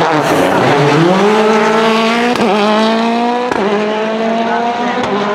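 Citroën DS3 WRC rally car's 1.6-litre turbocharged four-cylinder engine accelerating hard: the revs drop low at first, then climb steadily through two upshifts, each gear change marked by a sharp crack and a small step down in pitch.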